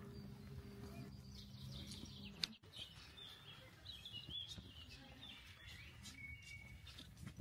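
Faint chirping of small birds in quick high calls, over a low steady hum that stops with a sharp click about two and a half seconds in.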